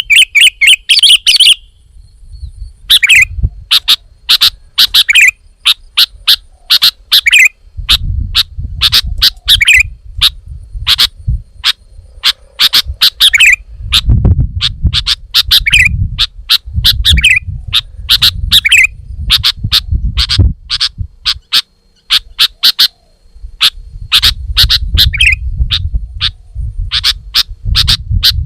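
Sooty-headed bulbul (kutilang) calling loudly and continuously: rapid short chirps, with a stronger call every second or two, over a low rumble that comes and goes.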